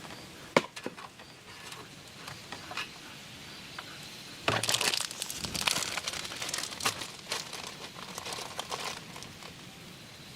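Crinkly material being handled and crumpled, with a few sharp clicks in the first second and a louder stretch of crinkling from about four and a half to nine seconds in.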